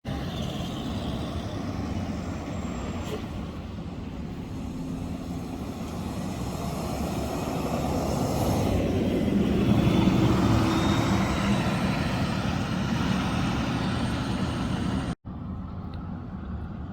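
City transit bus driving past, engine and tyre noise building to its loudest about ten seconds in and then easing off. The sound breaks off abruptly near the end into a quieter traffic background.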